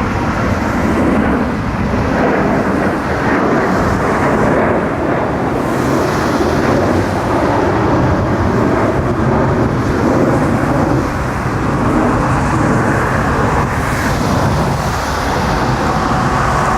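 A jet airliner's engines making a loud, steady rumble at close range, with a low buffeting that may be wind on the microphone.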